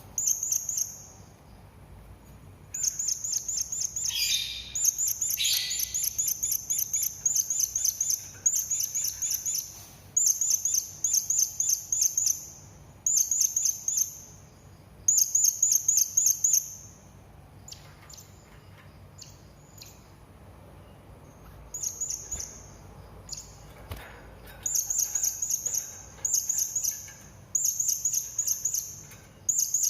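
Serindit hanging parrot calling: rapid trains of shrill, very high-pitched chirps in bursts of a second or two, repeated over and over, with a pause of a few seconds just past the middle.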